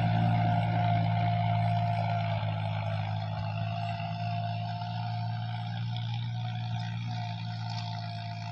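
John Deere 5055E tractor's three-cylinder diesel engine running steadily, with a steady high whine above the engine note. It grows gradually fainter.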